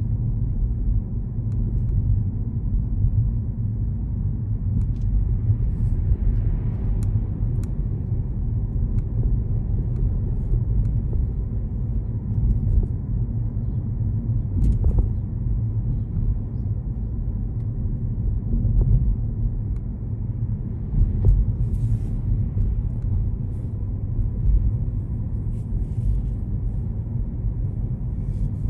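Steady low rumble of a car being driven, road and engine noise, with a few faint ticks and clicks.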